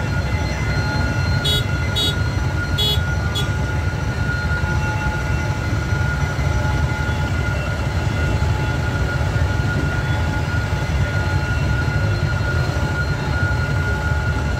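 Passenger train carriages rolling past with a steady low rumble of wheels on rails. A steady high ringing tone sounds throughout, and a few short high beeps come about two seconds in.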